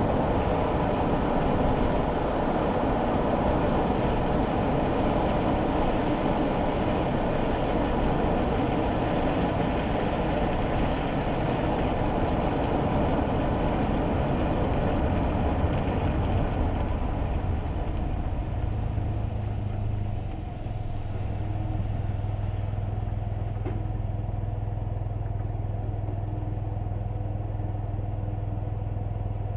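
Tyre and road noise from a kei car on a wet road, heard from inside the cabin. It thins out after about 17 seconds as the car slows. It then gives way to a steady low engine hum as the car idles at a stop.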